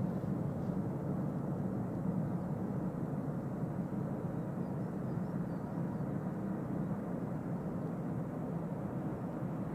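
Train running steadily on the track, a continuous low rumble of rolling noise without distinct clicks, horn or braking.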